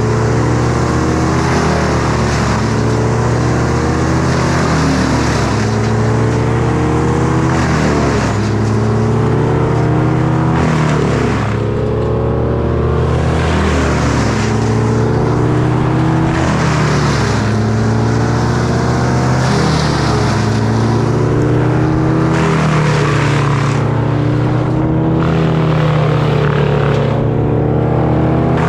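Two-stroke Echo chainsaw running continuously under load, its engine pitch climbing and dropping back over and over every few seconds as it cuts.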